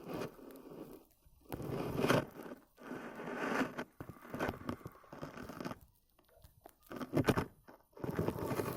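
Frosty snow crunching and creaking under a series of uneven steps.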